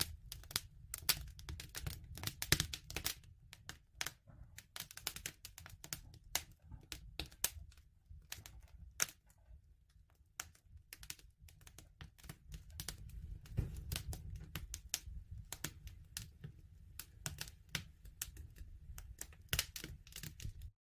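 Wood fire crackling: dense, irregular sharp snaps and pops over a low, steady rumble of the flames.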